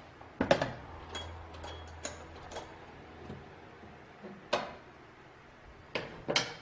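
A series of sharp clicks and knocks at uneven spacing, about eight of them, the loudest about half a second in, with a brief low hum after it.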